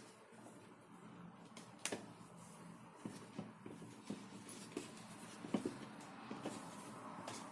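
Scattered light clicks and knocks of hard plastic parts being handled and fitted together during assembly, about a dozen irregular ticks over a faint steady hum.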